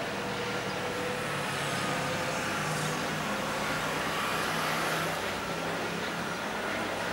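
Train running past with a steady rumble and a faint high whine drifting in pitch, swelling slightly in the middle.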